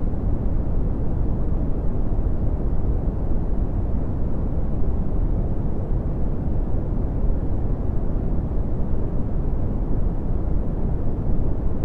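Red (Brownian) noise: a steady, deep rumbling hiss, strongest in the bass and falling away toward the treble, with no change in level.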